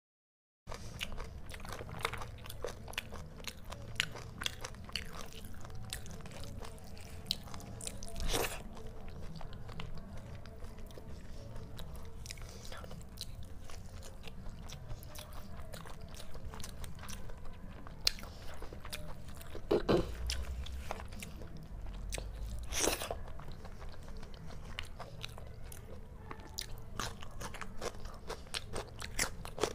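Close-miked eating by hand: wet chewing and crunchy bites with many small mouth clicks, starting about half a second in, with a few louder thuds along the way.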